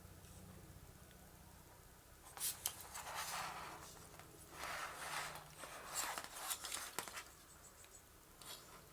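Rustling and clicking handling noises, most of them through the middle of the stretch, over a faint steady low hum.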